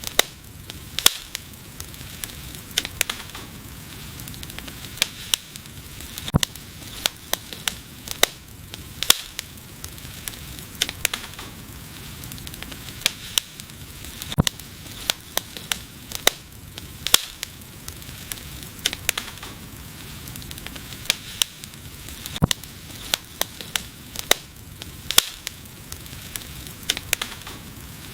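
Wood fire crackling: frequent, irregular sharp pops and snaps over a steady hiss.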